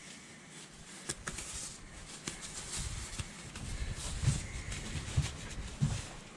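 Dull knocks, three in the second half, as the axle stub is worked into the wheel bearing housing and its new bearings. A couple of light metallic clicks come about a second in.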